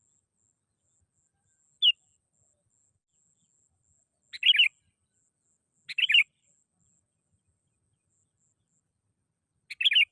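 Sooty-headed bulbul (kutilang) calling: a brief single note about two seconds in, then three short bubbly phrases spaced a few seconds apart.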